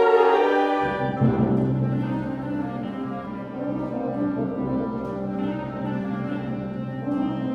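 Concert band playing: a loud held chord that drops away a little under a second in, leaving the low brass sounding sustained notes, with higher parts returning near the end.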